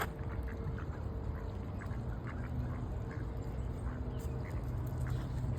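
Ducks quacking in short, scattered calls over a steady low hum.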